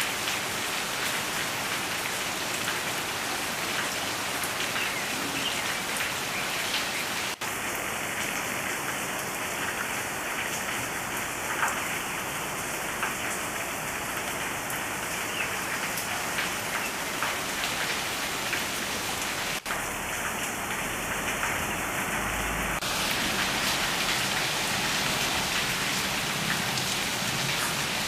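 Steady rain falling on garden leaves: an even hiss with scattered ticks of single drops, broken twice by a momentary dropout.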